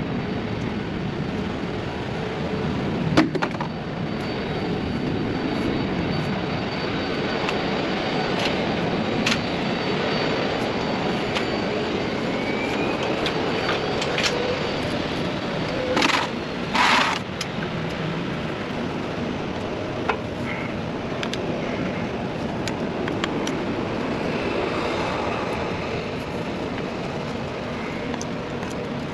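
Steady rumble of an engine running, with scattered metallic clicks and knocks and two short bursts of hiss about two-thirds of the way through.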